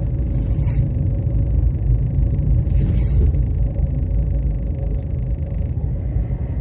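Steady low road and engine rumble heard from inside a moving car's cabin, with two brief hisses about half a second and three seconds in.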